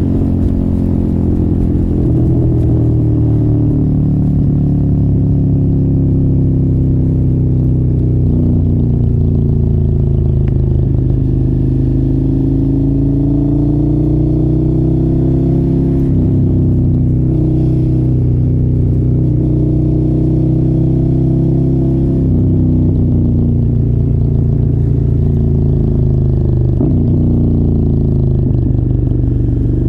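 Suzuki motorcycle with an aftermarket exhaust being ridden on the road, the engine running steadily at part throttle. Its pitch rises and falls slowly, with a few brief dips along the way.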